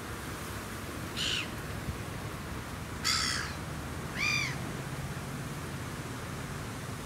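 A bird giving three short calls, the last one rising and then falling in pitch.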